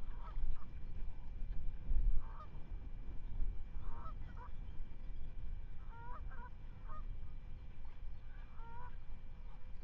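Geese honking: short calls, often in pairs, repeated every second or two, over a steady low rumble.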